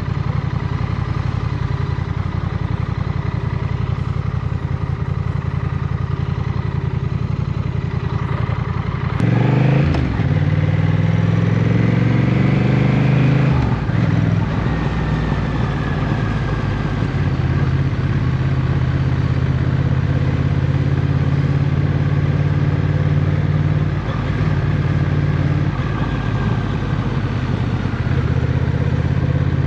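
Motorcycle engine running at low, steady revs, then about nine seconds in it revs up and accelerates, rising in pitch for about four seconds before dropping back and settling into a steady cruise.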